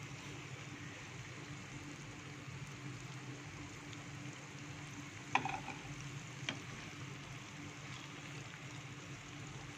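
Eggplant cubes frying in hot oil with a steady sizzle over a low hum, and two sharp metal clinks of a slotted spoon against the pan about five and six and a half seconds in.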